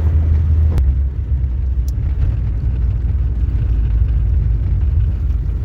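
Steady low rumble of a car on the move, with a sharp click about a second in.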